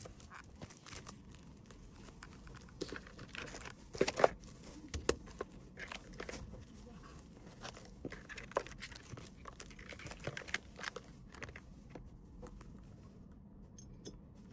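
Hands handling and packing small items: scattered taps, clicks and crinkling of packaging, with a louder pair of knocks about four seconds in.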